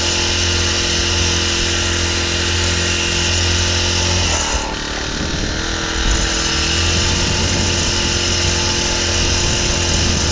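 Small petrol engine of site equipment running steadily at high speed, then dropping to a lower speed about four seconds in and running on.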